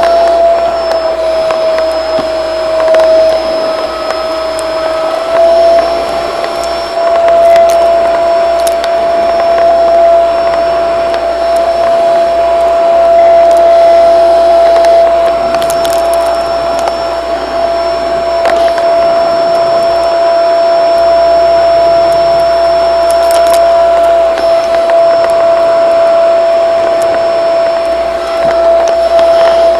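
Shark vacuum cleaner running steadily, its motor giving a strong, even whine, with a few brief clicks along the way.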